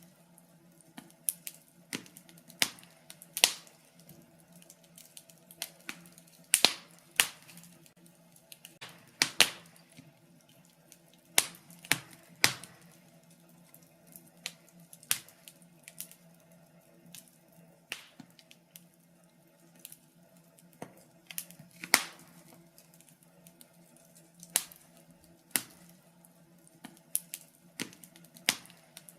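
Wood fire crackling in a fireplace: irregular sharp pops and snaps, about one or two a second and some much louder than others, over a faint steady hum.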